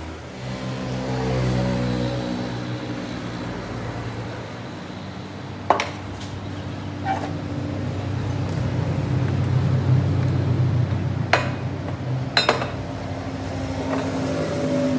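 Heavy machinery running with a steady hum that shifts in pitch a couple of times, with sharp metallic knocks and clanks about six, seven, eleven and twelve seconds in.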